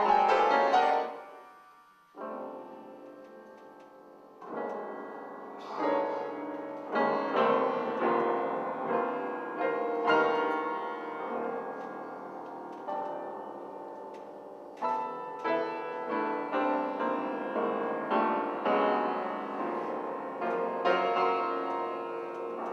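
Solo piano playing. A loud passage dies away about two seconds in and a soft chord rings on. Livelier playing picks up again around four to five seconds in.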